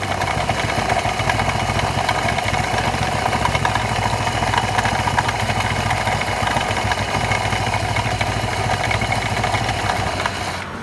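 Kymco G3 scooter engine idling steadily with the abnormal idle noise that the owner puts down to a worn clutch assembly.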